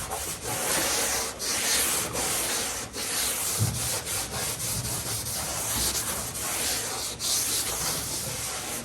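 Steady scrubbing by hand on an aluminum boat hull, working mineral spirits into sticker-glue residue, in a string of uneven rubbing strokes.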